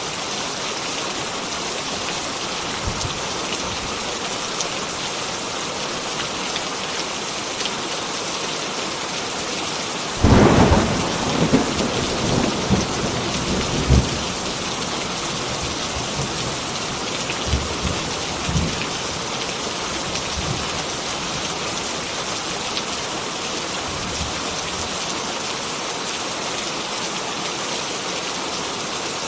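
Steady heavy rain. About a third of the way in a sudden thunderclap breaks into several seconds of crackling rumble, and fainter rumbles of thunder follow.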